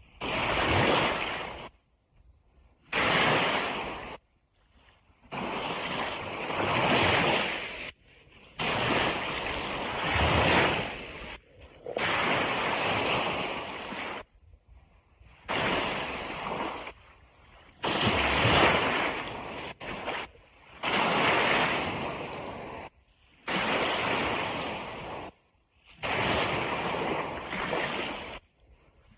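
Ocean surf washing onto a beach, coming in surges of one to three seconds that cut off abruptly into short near-silent gaps, about a dozen times.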